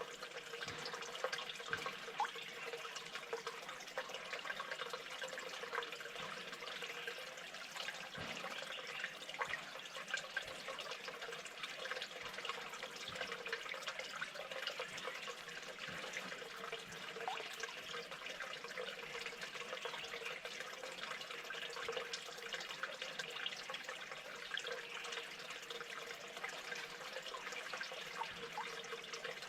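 Steady running water, with small scattered clicks through it.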